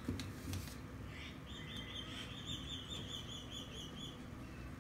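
A bird chirping in a quick, even run of high notes for about three seconds, starting about a second and a half in, with a couple of faint clicks just before.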